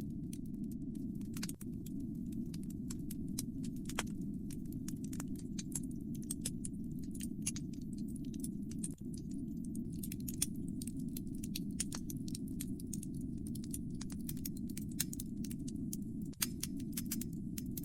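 Fire in a fireplace crackling: a steady low rumble of flames under frequent sharp pops and snaps, which come thicker from about ten seconds in.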